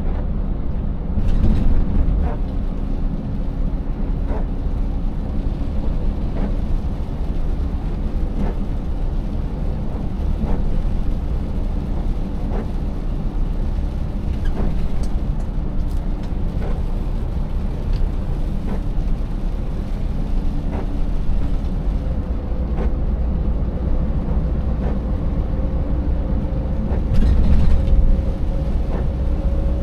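Scania 590S's 16-litre V8 diesel truck running under way over a rough road, with a steady rumble and frequent short knocks and rattles. The engine note rises slowly over the last several seconds, and there are two louder moments, about a second and a half in and near the end.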